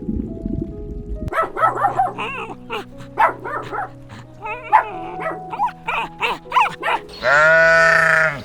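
A quick run of short animal calls, then a loud, long bleat near the end, like a sheep's or goat's, with background music underneath.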